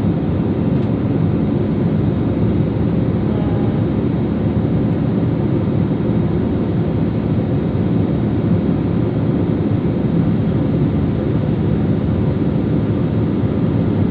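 Steady drone of an airliner's engines and airflow heard from inside the passenger cabin, even and unbroken.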